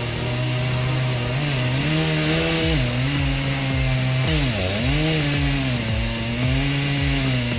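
Two-stroke chainsaw running at high revs and cutting through wood; the engine pitch sags as the chain bites in, about halfway through, and then recovers.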